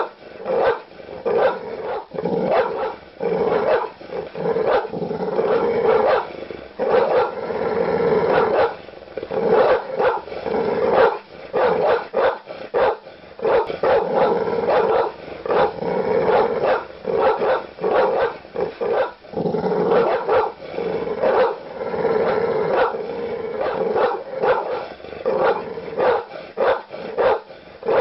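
Large dog barking aggressively in deep barks, one close on another in continuous runs, with growling between them.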